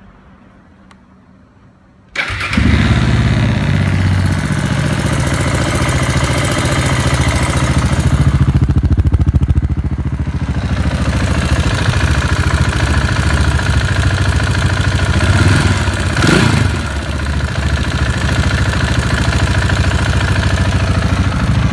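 KTM 690 Enduro R's single-cylinder LC4 engine starting about two seconds in and running at idle, with one short blip of the throttle about two-thirds of the way through.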